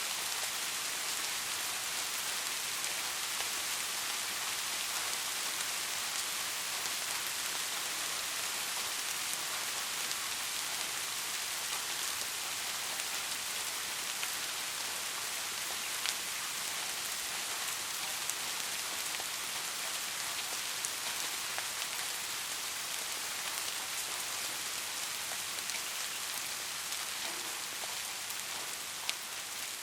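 Steady rain falling, a dense even hiss with scattered louder drips and drop hits.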